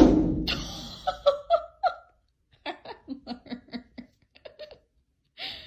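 A sudden thump at the very start, then a person laughing in short repeated bursts, trailing off into quieter giggling.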